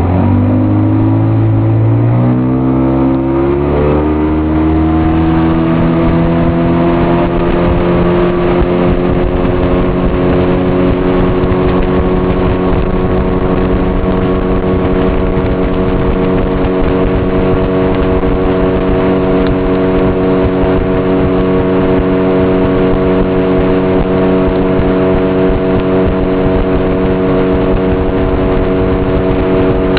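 Fishing boat's motor throttling up: its pitch climbs over the first five or six seconds, then it runs steadily at cruising speed.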